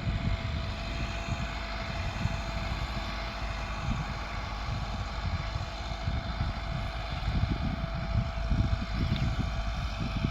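Massey Ferguson 375 tractor's diesel engine running steadily under load while pulling a disc harrow, with a steady whine over a deep, uneven rumble.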